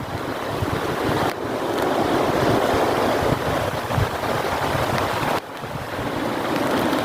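Heavy rain pouring with strong, gusting wind, the gusts buffeting the microphone. The sound shifts abruptly twice, about a second in and again past five seconds.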